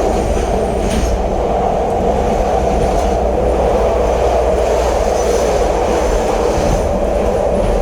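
CTA Red Line subway train running through the tunnel, heard inside the car: a steady loud rumble of wheels on rails with a few faint clicks.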